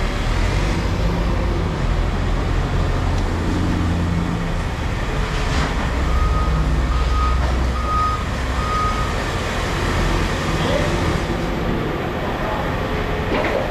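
A vehicle's engine running with a steady low rumble, and near the middle a reversing alarm beeping four times, about two-thirds of a second apart.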